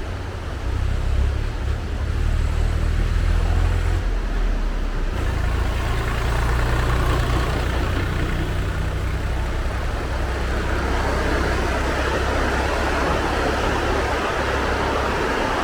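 Steady low rumble of a motor vehicle or road traffic, with a hiss of noise that grows louder after about five seconds.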